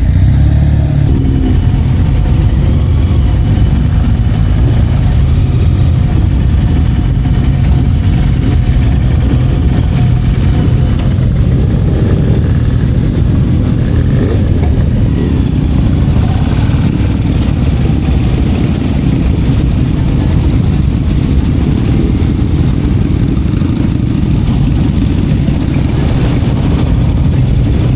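Motorcycle under way on the road, its engine running steadily over a loud, constant low rumble.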